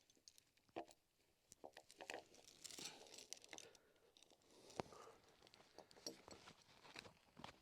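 Faint, irregular crunches and clicks.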